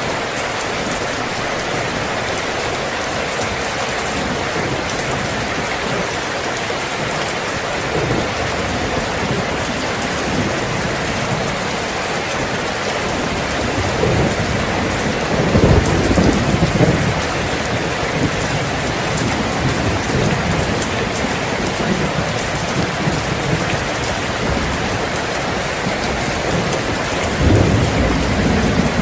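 Steady rain falling with a constant hiss, with low rumbles of thunder rolling about halfway through and again near the end.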